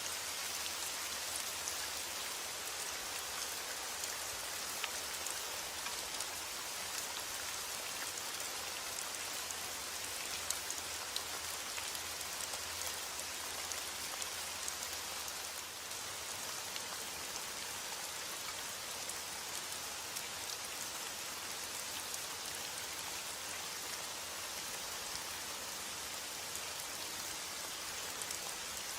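Steady rain falling, a dense even hiss with small drops pattering on a surface.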